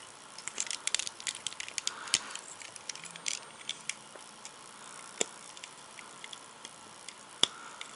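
Plastic LEGO bricks clicking and rattling as they are handled and pressed together: a quick flurry of small sharp clicks over the first few seconds, then a few scattered single clicks.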